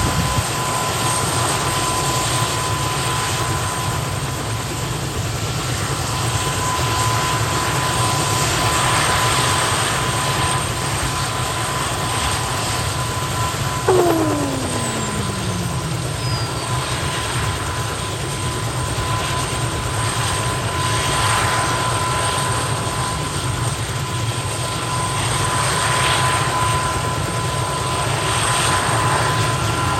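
Kamov Ka-32 helicopter's twin turboshaft engines running during startup: a steady rumble under a constant high whine. About halfway through, a sudden louder moment is followed by a tone falling steadily in pitch for about two seconds.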